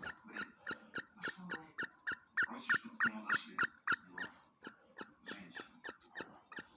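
Primer bulb on a Stihl string trimmer's carburetor being pressed over and over, about four or five squeaky clicks a second. It is not drawing fuel through, the sign of a faulty copy carburetor.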